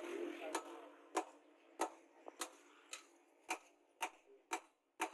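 Hammer striking metal in an even rhythm, a sharp blow a little more often than once a second, nine blows in all.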